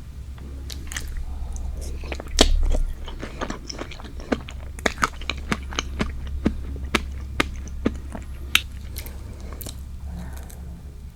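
Close-miked biting into and chewing a fresh strawberry: a loud bite about two seconds in, then sharp, wet mouth clicks about twice a second as it is chewed.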